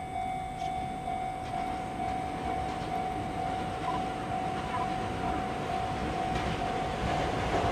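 Electric commuter train approaching on the line, its running noise growing louder toward the end, with a steady high pulsing tone throughout.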